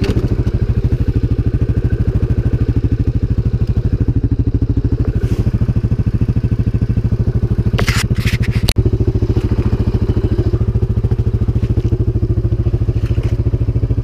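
CFMoto 500 ATV's single-cylinder engine running at a steady speed with an even thrum. A few sharp clacks come a little past halfway.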